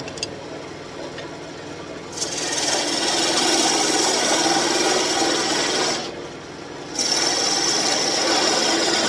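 Turning tool cutting a spinning birch branch on a wood lathe: a loud, steady hiss of shavings starts about two seconds in, stops for about a second past the middle, then resumes.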